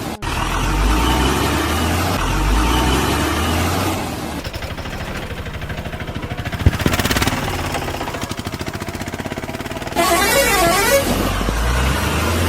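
Vehicle sounds: an engine running with a rhythmic pulse and a horn sounding, with a short, sharp change in sound about ten seconds in.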